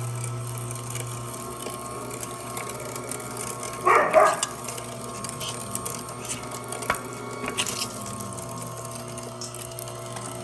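Amzchef ZM1517 slow masticating juicer with its meat grinder attachment running, a steady motor hum as the auger grinds meat. A short loud sound about four seconds in, and a couple of sharp clicks near the eight-second mark.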